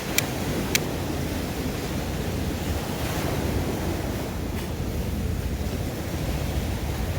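Sea surf washing on the shore, a steady wash that swells about three seconds in, with a low wind rumble. A few sharp clicks sound near the start and once more faintly later.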